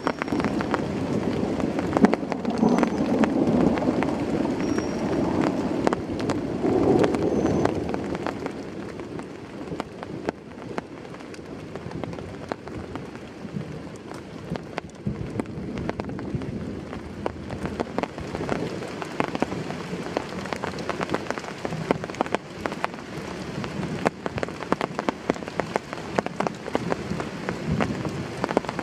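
Heavy rain falling, a steady hiss dotted with many sharp drop impacts. It is heavier for the first several seconds, then eases somewhat.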